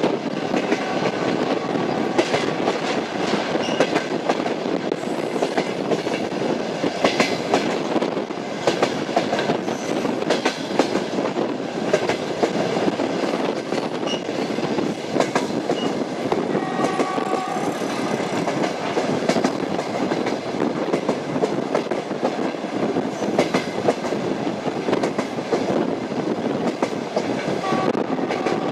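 Train running between stations, its wheels clicking over the rail joints in a fast irregular patter over a steady rumble.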